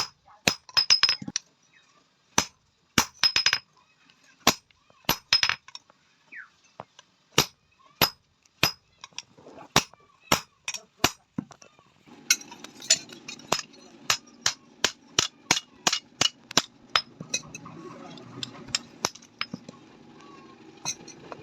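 Hand hammer striking a sheet-iron tawa being forged, sharp ringing metal blows. In the first part they come singly and in quick clusters; about twelve seconds in, a steadier run of about three blows a second starts over a low steady background noise.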